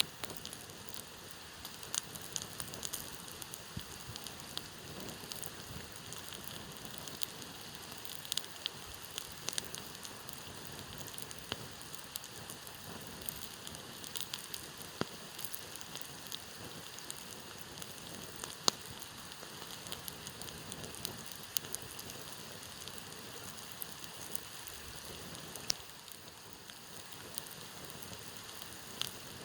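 Campfire crackling with irregular sharp pops over the steady rush of a stream. One pop, about two-thirds of the way through, is the loudest.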